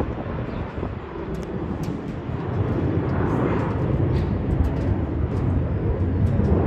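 Jet airliner's engines thundering through takeoff and initial climb: a steady, noisy rumble that grows louder after about a second.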